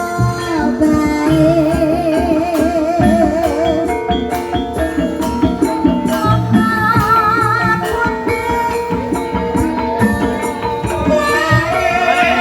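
Javanese gamelan music accompanying an ebeg dance: struck percussion and drum over sustained metallic pitched tones, with a wavering melody line sung or played above.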